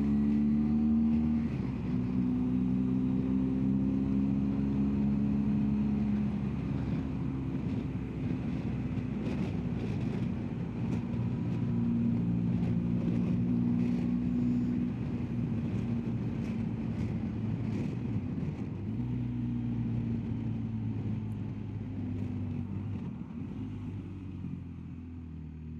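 BMW R1250GS Adventure's boxer-twin engine running under way, its pitch rising and falling several times as it changes speed and gear, with wind and road noise.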